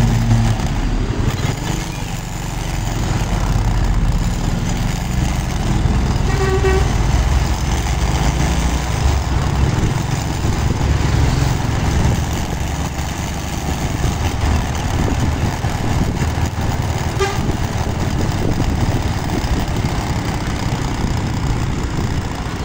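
Truck engine running with a steady low rumble, with a short horn toot about six and a half seconds in and a fainter one near the end.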